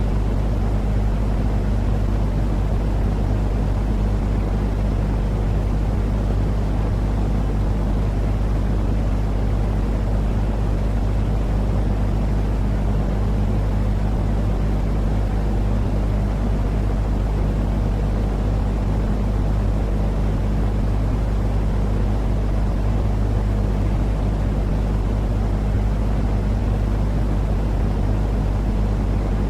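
Continuous white-noise sleep track: a steady, unchanging rumbling noise, heaviest in the low end with a low hum under it.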